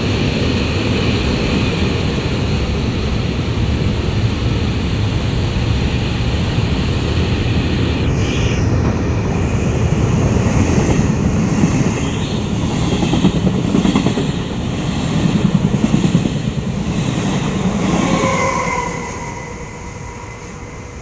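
Freight train wagons rolling past on the rails: a loud, steady rumble with fast wheel clatter, while an electric regional train passes on the next track. The rumble eases off about 19 seconds in.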